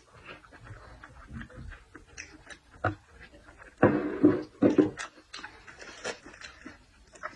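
Close-miked eating sounds of seafood being chewed: wet smacks and small clicks, with a louder burst of mouth noise about four seconds in.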